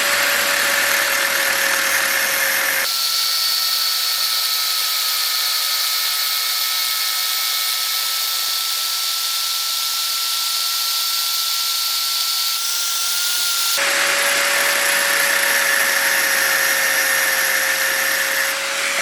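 Electric power tool running at a steady speed with a hissing, whining tone. About three seconds in the sound switches abruptly to a higher, thinner whine, and about fourteen seconds in it switches back.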